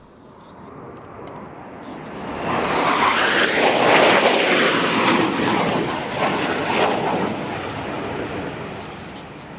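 A fixed-wing aircraft passing. Its engine noise swells over the first few seconds to a peak about four seconds in, with a sweeping, phasing sound as it goes by, then slowly fades.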